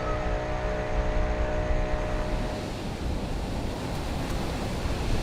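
Storm wind and rain noise with a heavy low rumble from wind on the microphone. A steady hum of several tones runs underneath and stops about halfway through.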